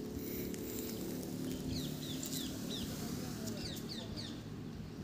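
Birds chirping in the background: quick, short, falling chirps repeated a few times a second, over a faint low steady hum.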